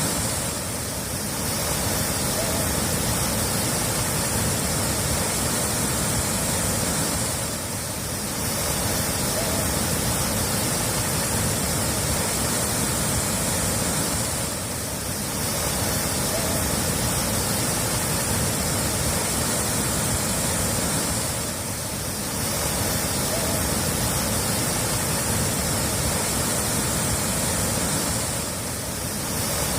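Steady rush of running water, loud and even, dipping slightly about every seven seconds as the recording loops.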